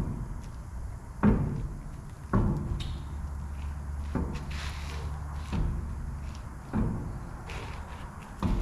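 A series of about six heavy knocks or clunks at irregular intervals, each ringing briefly, with a low steady hum between them for a couple of seconds near the middle.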